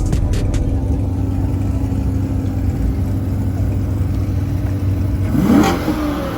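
Vehicle engine running low and steady, then briefly revved about five seconds in, the pitch rising sharply.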